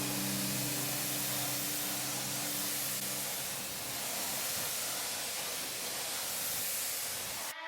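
Steady hiss of water spraying from a pressure washer, under background music that fades out about three seconds in; the spray cuts off abruptly near the end.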